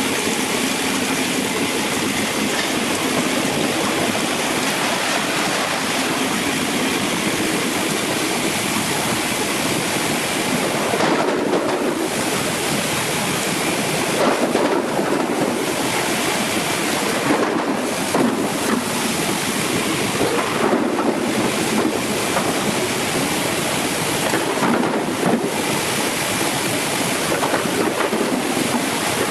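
Brush-type sugarcane washing machine running, with a steady rush of spraying and splashing water. The high hiss dips briefly every few seconds.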